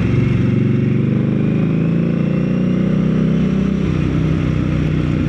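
Indian Scout Rogue's V-twin engine running through a Jekill & Hyde aftermarket exhaust, rising in pitch as it accelerates for about three seconds, then dropping as the throttle eases, and settling to a steady note near the end.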